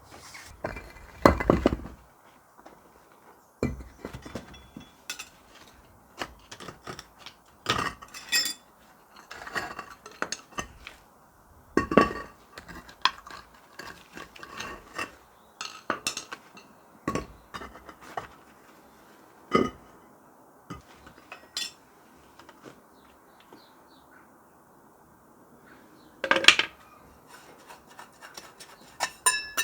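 Loose metal parts clanking and clinking as they are handled and knocked together, in irregular separate knocks with a short ring. The loudest knocks come about a second in and near the end.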